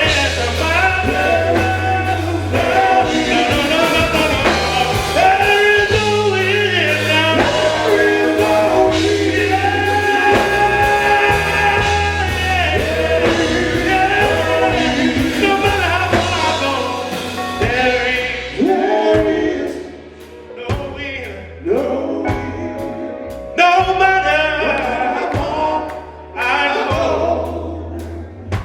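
Live gospel music: a vocal group singing in harmony over a band with a steady bass line. About two-thirds of the way through the band thins out and the voices carry on more sparsely.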